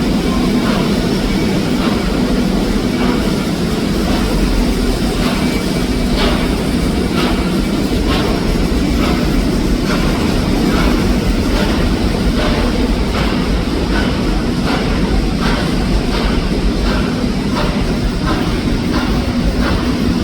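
Train running: a steady loud rumble and rattle. About six seconds in, a regular beat of clicks joins it, at roughly one and a half a second.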